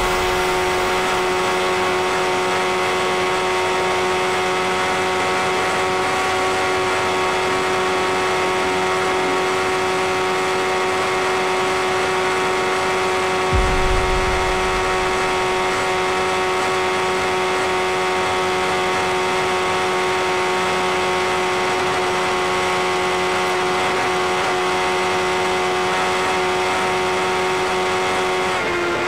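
Sport motorcycle engine held at a steady high rpm at speed, heard from on board over a rush of wind. There is a brief low thump about halfway through, and the engine note drops slightly near the end.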